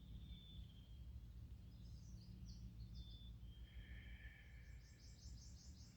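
Faint birdsong: several birds chirping and whistling, with a quick trill of repeated notes near the end, over a low steady rumble.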